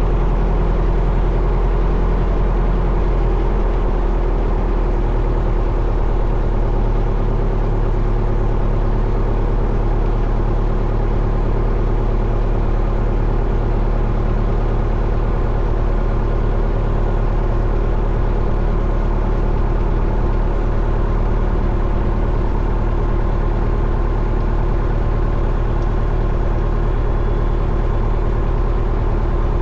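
Single-engine Cessna Skyhawk's four-cylinder Lycoming engine idling steadily just after a cold winter start, while the oil pressure comes up. Its tone shifts slightly about four seconds in and then holds steady.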